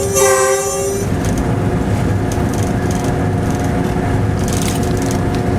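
Locomotive horn blast that stops about a second in, followed by the steady running noise of the locomotive cab, with engine drone and wheel-on-rail rumble.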